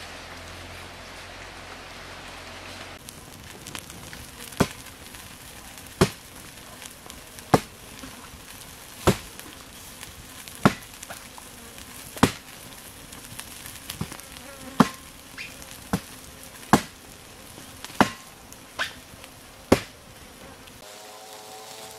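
A dozen or so sharp knocks, struck at an even pace of about one every one and a half seconds, each dying away quickly, over a faint hiss.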